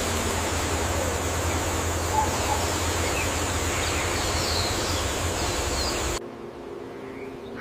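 Steady hiss of outdoor ambience with a few faint bird chirps. It cuts off abruptly about six seconds in, leaving a quieter low hum.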